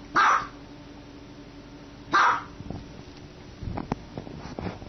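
Small dog barking twice, single sharp barks about two seconds apart, followed by a few faint knocks near the end.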